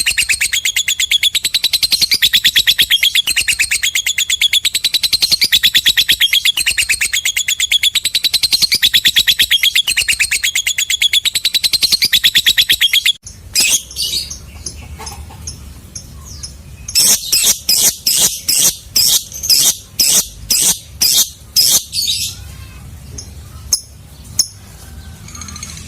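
Lovebird giving a long, very rapid high chattering trill (the 'ngekek') that cuts off suddenly about halfway through, followed by separate shrill chirps in quick series.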